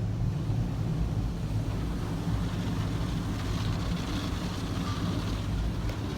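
Automatic car wash heard from inside the car's cabin: foam and water spraying over the body make a steady hiss that grows stronger about halfway through, over a low, even hum.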